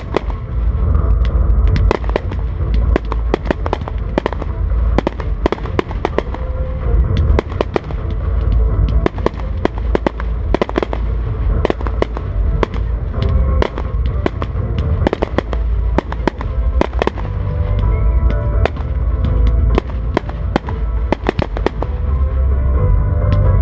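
Fireworks display with shells bursting in a rapid, irregular stream of sharp bangs, several a second at times, over music with a heavy bass.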